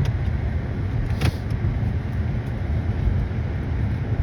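Vehicle engine running with a steady low rumble, heard from inside the cab while the vehicle is stuck in deep snow, with one short click about a second in.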